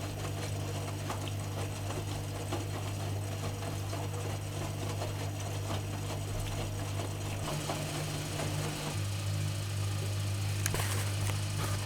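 AEG Öko-Lavamat washing machine running mid-programme: a steady low motor hum with small clicks and rattles over it. The sound changes about eight seconds in, and a sharp click comes near the end.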